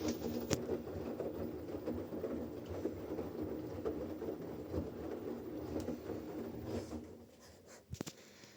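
Washing machine running a wash: the drum turns with a steady churning noise and a motor hum, then stops about seven seconds in, followed by a few sharp clicks.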